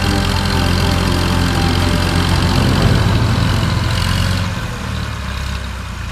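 Tractor diesel engine running steadily, then easing off about four and a half seconds in.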